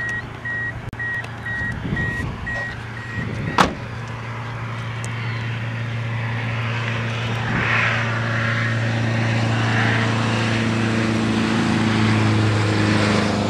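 A car's electronic warning beeper sounds a quick run of even beeps for about three seconds, then stops. A single sharp click follows, and then the car's engine runs steadily with a low hum as the vehicle pulls up.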